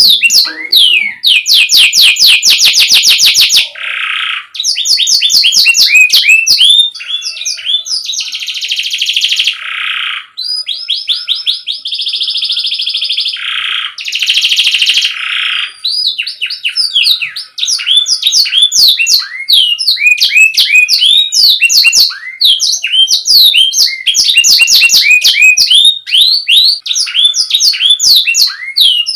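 Domestic canary singing a continuous song: rapid repeated chirps and trills, with several buzzy rolls held for a second or two in the middle.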